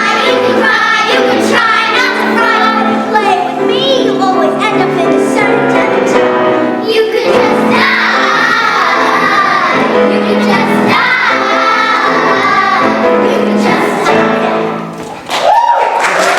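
Children's voices singing a stage-musical number with musical accompaniment; the song ends about fifteen seconds in and an audience starts applauding.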